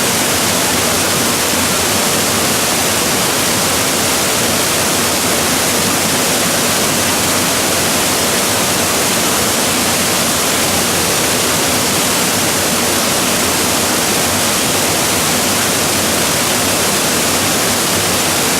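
Waterfall: falling water rushing loudly and steadily, an even hiss-like roar with no breaks or changes.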